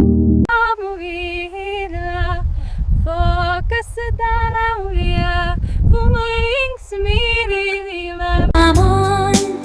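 A woman singing a melody in short phrases, mostly unaccompanied; an instrumental chord cuts off about half a second in and the instrumental backing comes back near the end.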